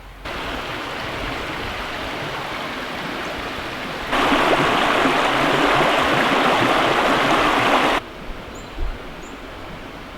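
Flowing creek water, a steady rushing noise heard in edited shots. It starts suddenly, jumps louder about four seconds in, and cuts off abruptly about eight seconds in.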